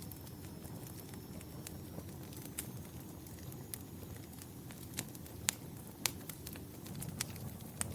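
Wood fire crackling: irregular sharp pops over a steady low rumble, with the loudest two pops a little past halfway.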